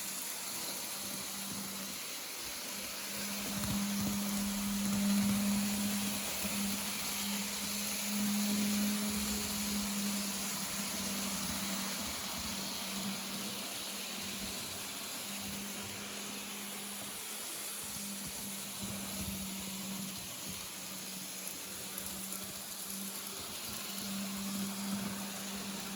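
N scale model locomotive running along the layout's track: a low motor hum that swells and fades as it moves nearer and farther, over a steady hiss.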